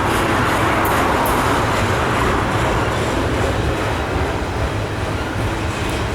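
Northbound Norfolk Southern intermodal freight train rolling past, its cars' wheels giving a steady rumble on the rails with a few faint clicks.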